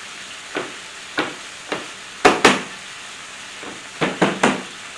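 Sharp knocks of a knife whacking garlic cloves to pop them out of their skins, about eight in all: three spaced about half a second apart, a louder pair in the middle, then three quick ones near the end. Under them, the steady sizzle of chicken breasts frying in oil.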